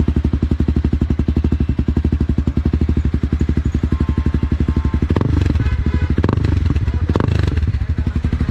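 Motorcycle engine idling with an even, rapid pulse. About five seconds in, it gets louder for a couple of seconds, with a few sharp knocks.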